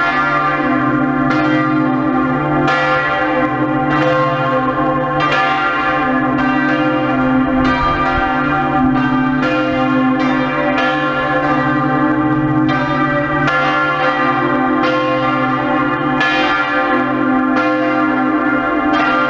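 Church bells ringing, a fresh stroke about every second and a quarter over a sustained ringing hum.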